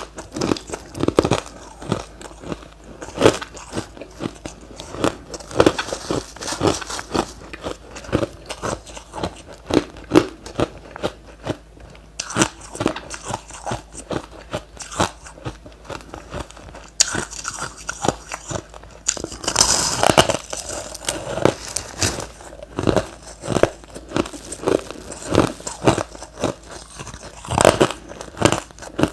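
Close-miked mouth biting and chewing of hard refrozen crushed ice: repeated sharp, crisp crunches at an irregular pace, several a second at times.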